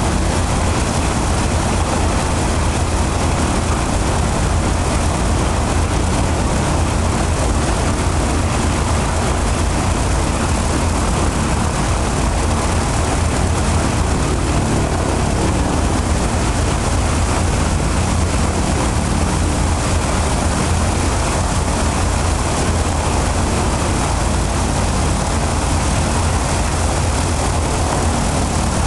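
Ilyushin Il-14's left engine, a Shvetsov ASh-82T fourteen-cylinder radial, running steadily on a ground run-up with its propeller turning, holding an even level.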